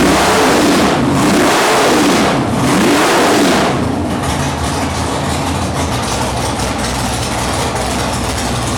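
Nitrous-fed 441 cubic-inch small-block Chevy V8 revved in several quick blips over the first four seconds, then settling into a steadier idle.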